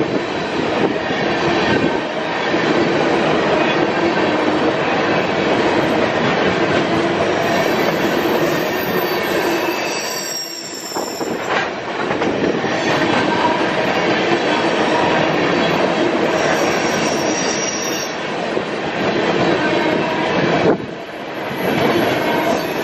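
Empty steel coal hopper cars rolling past close by: a loud, steady rumble and rattle of wheels on rail, with brief high wheel squeals twice.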